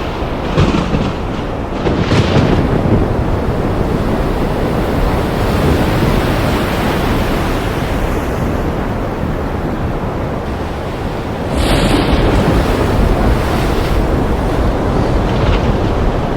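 Thunder rolling in a long, continuous low rumble, with crackling near the start. About eleven and a half seconds in, a sharper crack sets off a louder rumble that carries on to the end.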